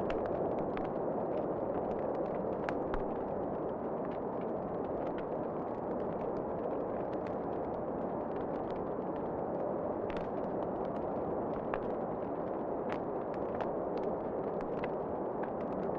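Wood fire crackling in a fireplace, with irregular sharp pops and snaps over a steady rushing background.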